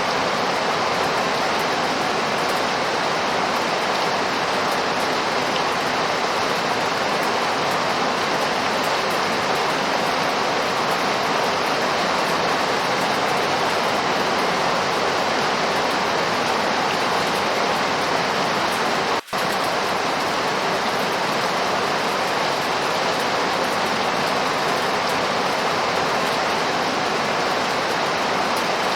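Steady, heavy rainfall: a dense even hiss with no single drops standing out. It cuts out for an instant about two-thirds of the way through.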